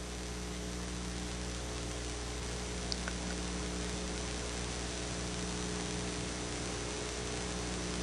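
Steady electrical mains hum with hiss in the recording, and a faint click about three seconds in.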